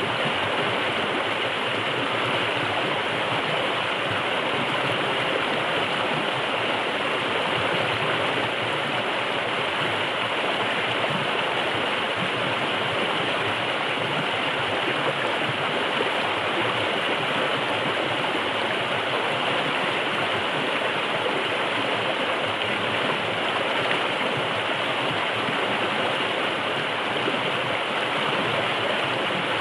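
River water rushing steadily over rocks in a forest stream, an even, unbroken flow with no change in level.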